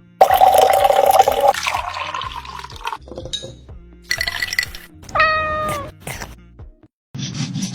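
A cat meowing more than once, the later call falling in pitch, with music underneath.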